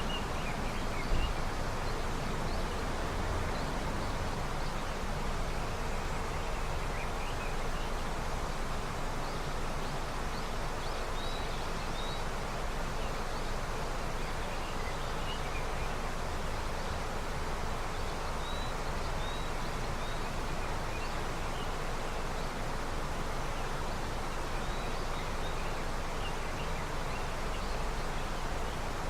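River swollen with early snowmelt, flowing steadily, with faint short bird chirps now and then and a brief low bump about a second in.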